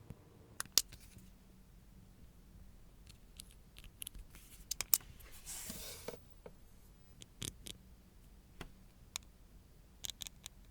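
Small hand tools clicking and tapping at irregular intervals while nails are worked on, with one brief scrape about five and a half seconds in.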